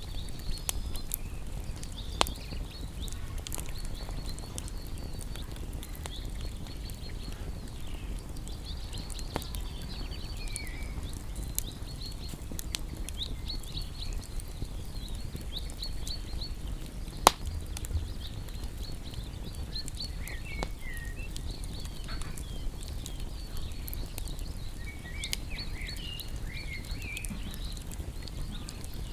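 Wood fire in an outdoor bonfire burning with a low steady rush and a few sharp crackling pops, one about two seconds in and a louder one midway, while small birds keep up rapid high chirping and twittering.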